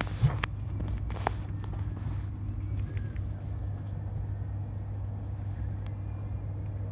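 Steady low rumble of a train heard from inside a coach, with a few sharp clicks and knocks in the first couple of seconds.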